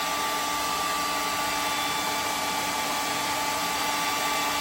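Hand-held hair dryer running steadily, blowing hot air onto a cold nitro RC engine to warm it before starting: a steady whine over the rush of air.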